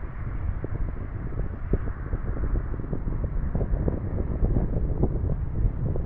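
Storm wind buffeting the microphone: a low, rumbling roar that rises and falls irregularly with the gusts.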